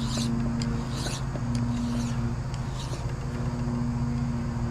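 Hand file scraping across the steel lip on the winch shaft, about four strokes a second apart, taking down the raised edge where a collar has been riding; a steady low hum runs underneath.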